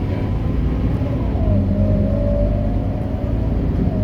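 Scania K230UB bus's diesel engine running under way: a steady low rumble with a whine that rises in pitch about a second and a half in and then holds.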